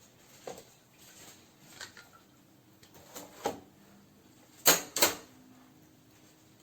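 Scattered clicks and light knocks of parts of a slow juicer being handled, with two loud sharp clacks in quick succession a little past the middle.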